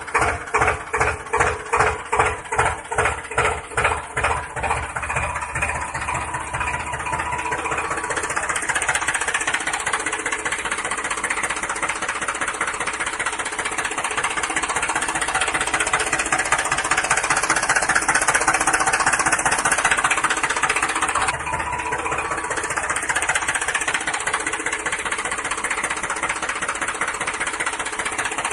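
Small engine running with a slow, even thudding beat, about two or three a second, that quickens and blends into a steady rattling run after about six seconds.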